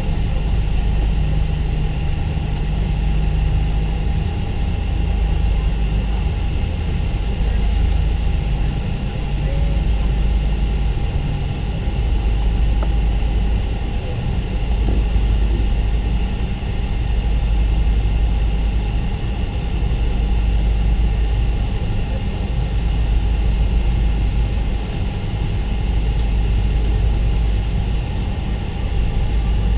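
Cabin noise inside a Boeing 777-200 airliner: a steady, heavy low rumble with a constant engine whine over it.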